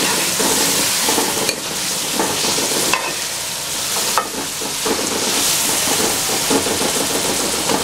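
Chopped tomatoes and green chillies sizzling in hot ghee in a metal kadhai, stirred with a metal spoon that scrapes along the pan, with a few light clicks. The tomatoes are frying down for a masala base.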